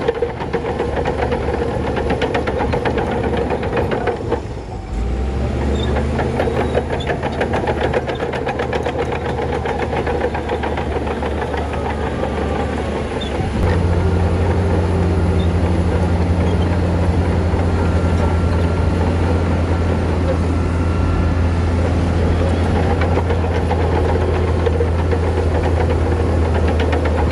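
Heavy diesel engine of earthmoving machinery running. About four and a half seconds in it dips briefly, and about halfway through it steps up to a louder, steadier drone.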